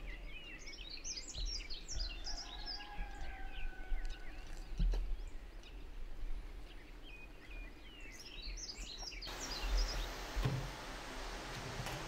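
Songbirds chirping and twittering over a low outdoor rumble, in a busy burst early and again near the end. It then cuts abruptly to a steady room hiss with a few soft knocks.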